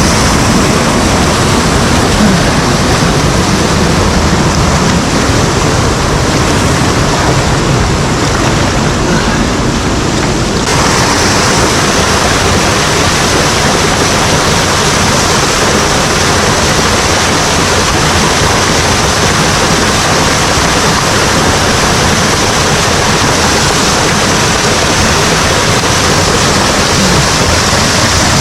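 Mountain stream water rushing over rocks, loud and steady. About ten seconds in the rush turns abruptly brighter and hissier.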